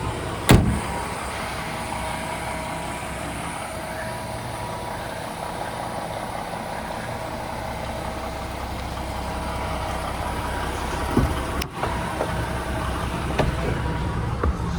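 DAF CF 480 tractor unit's diesel engine idling steadily. A sharp knock about half a second in and another thump around eleven seconds stand out over the idle.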